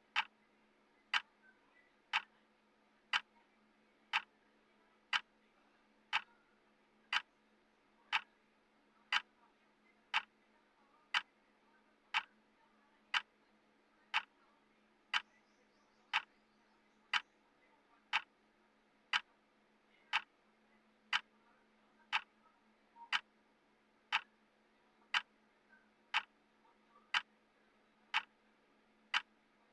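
Clock ticking once a second, sharp, even ticks counting down a timer.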